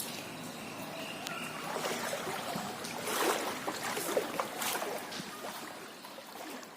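Floodwater sloshing and splashing, with the loudest splashes about three to five seconds in before it fades away.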